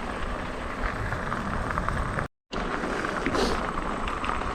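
Steady wind and tyre noise from an e-bike being ridden, with a few small ticks. The sound cuts out completely for a moment about two seconds in.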